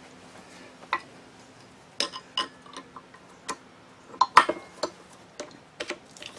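Irregular metallic clicks and clinks of hand tools and metal parts being handled on a workbench, about a dozen separate sharp ticks with the loudest cluster about four and a half seconds in.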